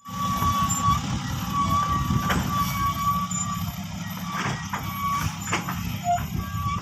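Heavy truck engine running steadily with its reversing alarm beeping in a single tone about once a second, with a few sharp knocks.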